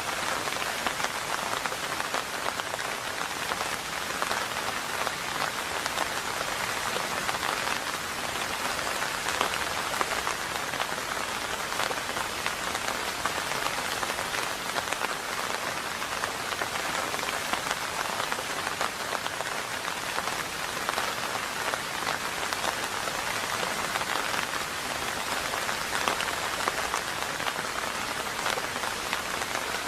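Steady rain falling: an even hiss dense with small drop impacts that holds unchanged throughout.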